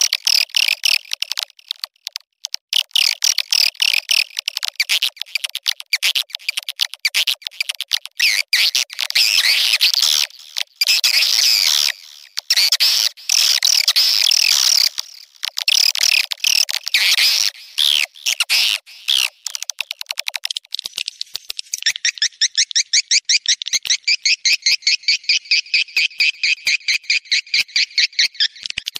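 Recorded swiftlet calls of the kind played to lure swiftlets, billed as their mating call: dense chattering chirps broken by short gaps. About three-quarters of the way through they change to a fast, even, rattling trill.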